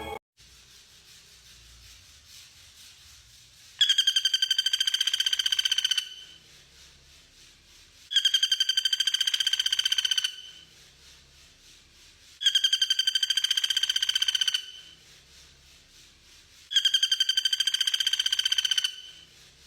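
A bird's rapid, buzzy trilled call, each burst about two seconds long at an even pitch, given four times at evenly spaced intervals of about four seconds: a repeated masteran recording for training songbirds.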